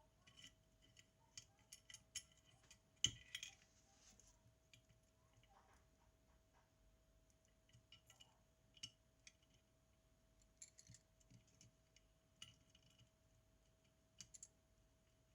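Faint, scattered clicks and taps of small metal tools and parts being handled during the repair of a Zenit TTL camera, with one louder click about three seconds in.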